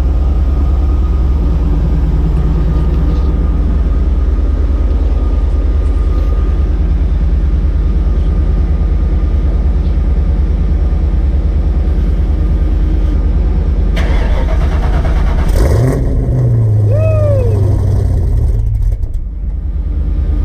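1995 Ford Mustang's Vortech-supercharged V8 running just after a cold start, with a steady fast rumble. It is revved briefly near the end.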